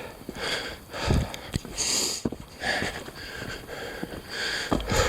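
A hiker breathing hard while climbing, a loud breath about every second, with a few dull footfalls on the trail.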